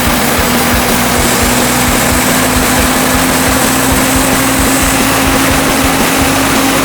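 Homemade band sawmill running, driven by a salvaged Ford industrial engine at a steady speed, with a constant hum that rises slightly in pitch.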